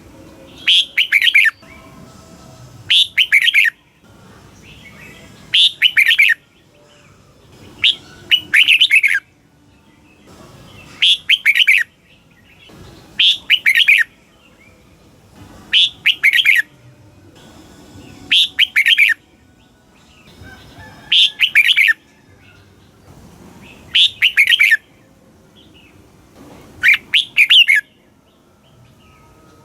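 Red-whiskered bulbul singing: short, bright, warbling phrases repeated about every two and a half seconds, around eleven in all.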